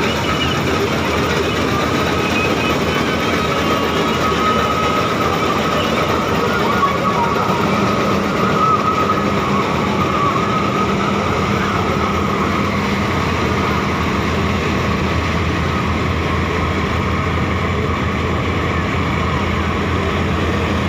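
LS combine harvester running, a loud, steady din of engine and threshing machinery; a deeper, steadier engine hum comes in about halfway through.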